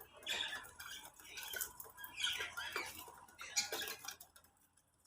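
Budgerigars chirping and chattering in quick, high chirps that stop about four seconds in.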